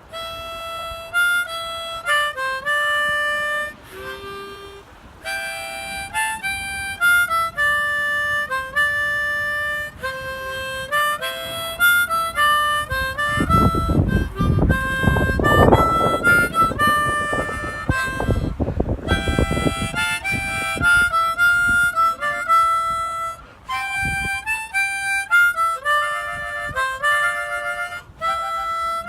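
Harmonica playing a melody of held notes, changing every half second or so. Partway through, a few seconds of low rumbling noise sound under it.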